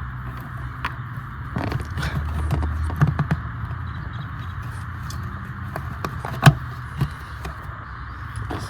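Handling noises of hands working with cable and parts: scattered clicks and taps, the sharpest about six and a half seconds in, over a steady low hum.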